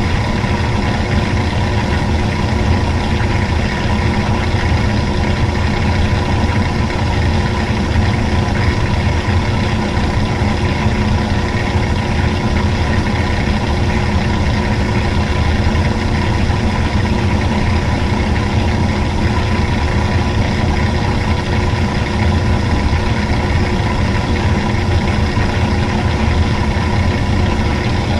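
Washing machine running: a steady motor hum with several fixed tones, unchanging throughout.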